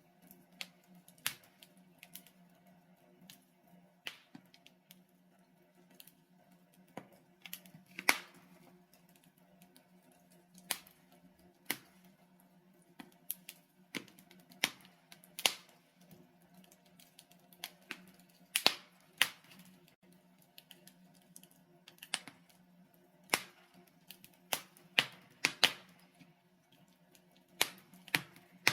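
Logs burning in a fireplace, crackling with irregular sharp pops, some much louder than others, over a faint steady low hum.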